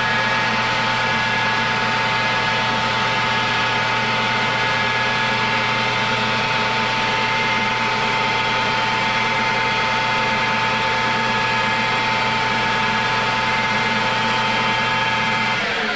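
Metal-working machine tool running steadily with a constant whine, then switched off about a second before the end, its pitch falling as it spins down.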